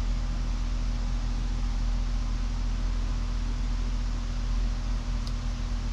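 Steady low mechanical hum with a few constant low tones, unchanging throughout, and one faint click about five seconds in.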